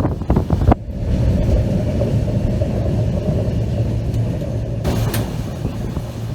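Train running along the track: a steady low rumble, with a few sharp knocks in the first second and another about five seconds in.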